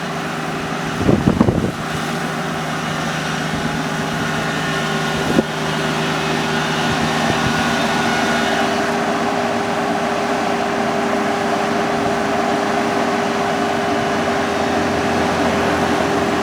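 Kubota combine harvester's engine running steadily with a constant whine, a short burst of knocks about a second in and a single sharp knock about five seconds in.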